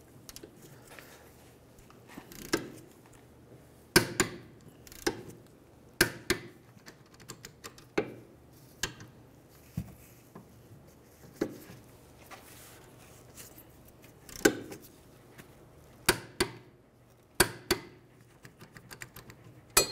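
Scattered sharp metallic clicks and knocks, one every second or two, from a socket and torque wrench being worked on the rear brake caliper bracket bolts as they are torqued to 70 foot-pounds.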